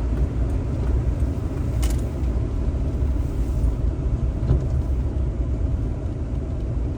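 Steady low rumble of a cargo van driving, heard from inside the cab: engine and road noise at an even level, with a faint short click about two seconds in.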